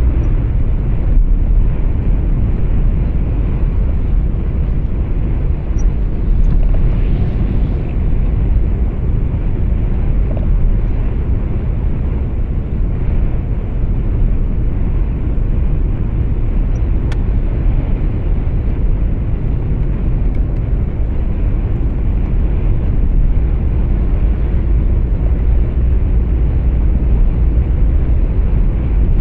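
Truck driving on the road, heard from inside the cab: a steady, loud low rumble of engine and tyre noise.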